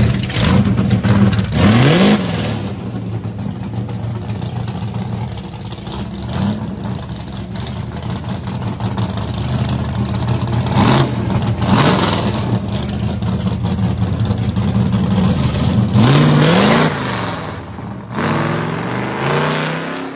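Classic muscle car engine running with a steady, deep note, revved up in quick rising sweeps about two seconds in, twice around the middle, and again near the end.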